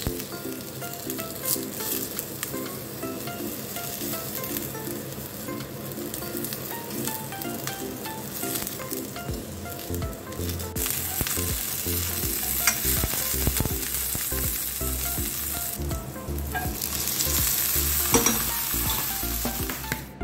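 Eggplant slices sizzling in hot oil in a frying pan, with the clicks and scrapes of a fork turning them over. The sizzle grows louder near the end.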